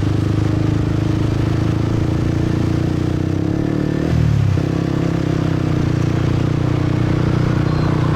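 Motorcycle engine running steadily while riding, with wind and road noise; the engine note shifts briefly about four seconds in, then settles again.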